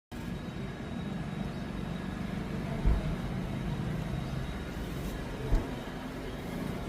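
Suzuki Wagon R engine running with a steady low rumble, with two brief low thumps about three and five and a half seconds in; the engine is misfiring.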